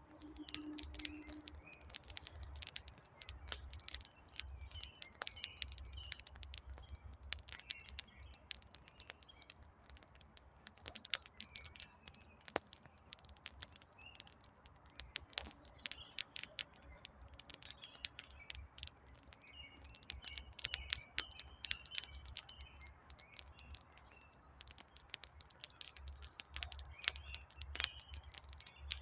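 Wood campfire crackling, with frequent sharp pops and snaps over a low rumble, while small birds chirp on and off.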